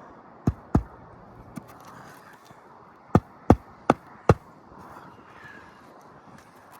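Hand hammer striking on a shingle roof: two sharp blows, a light tap, then four more blows in quick even succession, about two or three a second.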